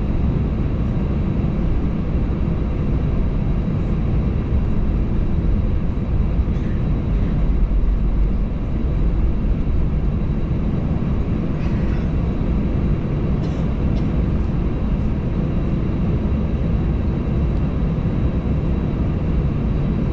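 Steady low cabin drone inside an Airbus A320 taxiing with its jet engines at low power, with a couple of faint ticks about twelve and thirteen and a half seconds in.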